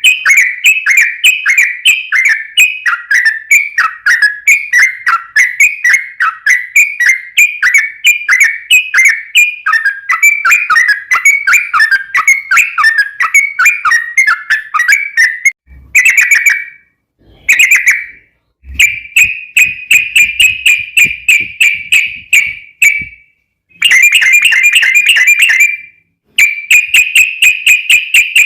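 Yellow-vented bulbul (trucukan) singing a long, fast 'ropel' run of bubbly, warbling chirps, unbroken for about fifteen seconds. After that it comes in shorter bursts with brief pauses between them. This rapid-fire song is what keepers play as a lure to set other bulbuls singing.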